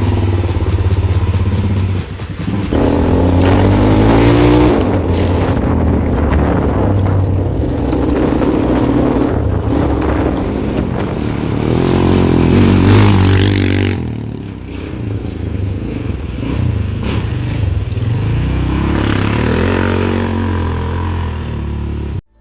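Off-road vehicle's engine running under load and revving up and down repeatedly, with clattering and scraping from the vehicle as it drives over rough ground; the sound cuts off abruptly near the end.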